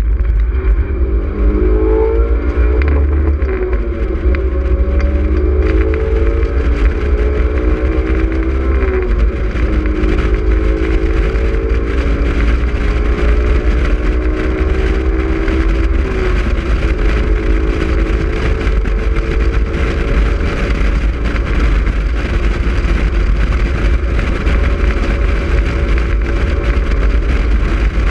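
Honda S2000's inline-four engine under hard driving on a track, its pitch climbing repeatedly and dropping as it accelerates and shifts. Steady wind rumble on the microphone in the open cockpit runs underneath.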